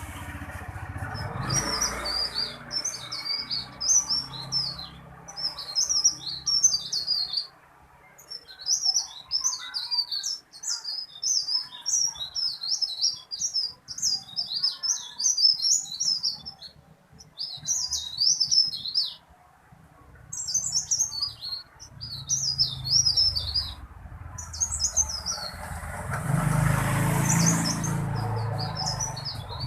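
A burung teralis, a small songbird, singing gacor: loud, long, rolling phrases of rapid high chattering, repeated with short pauses. A low rumble swells near the end.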